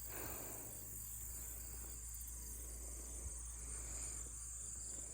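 Field crickets chirring in a steady, high-pitched chorus, over a low steady hum.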